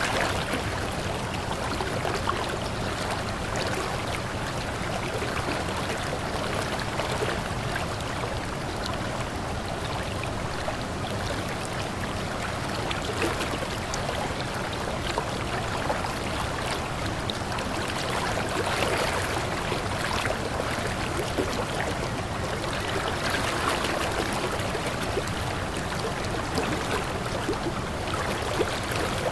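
Running water, a steady stream-like flow and trickle with small scattered splashes.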